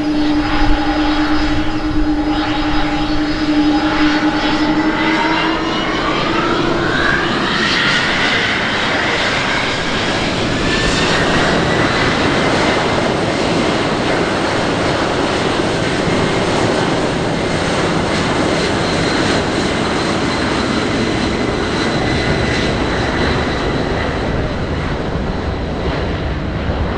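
Aircraft engines spooling up to high power. A whine climbs steeply in pitch between about five and eight seconds in, then holds steady over a broad engine rush.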